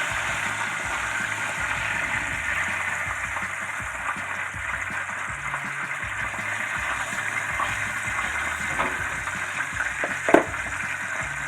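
Breaded chicken schnitzel shallow-frying in hot oil: a steady sizzle with scattered crackles and pops. There is a single sharp click about ten seconds in.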